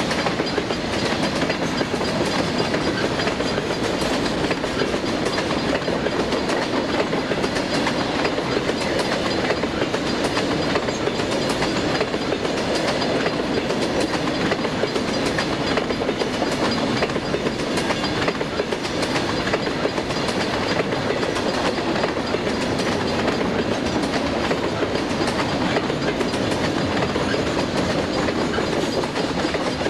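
Southern Pacific freight train's open-top gondola cars rolling past, their wheels clattering steadily on the rails with a constant clickety-clack.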